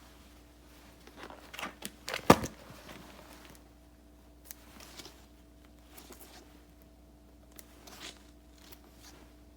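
Paper and stickers being handled while decorating a journal: rustling and peeling, with one sharp tap a little over two seconds in, then lighter, scattered rustles and clicks.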